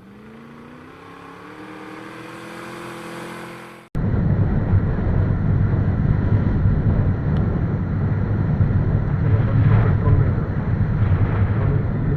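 Motorcycle accelerating, its engine note rising steadily. After an abrupt cut about four seconds in, there is a loud, steady low rumble of the ride under way.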